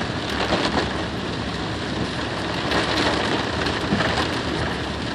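Steady rushing hiss of water heard from inside a car on a flooded road, with a low rumble underneath.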